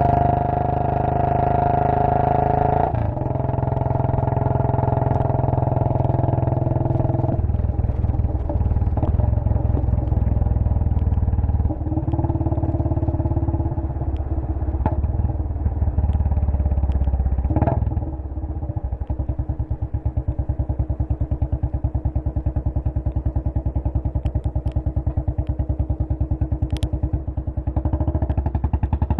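Royal Enfield Bullet 500's single-cylinder four-stroke engine running on the move, its exhaust note changing pitch every few seconds with throttle and gear changes. About two-thirds of the way through it settles into a slower, even pulsing beat.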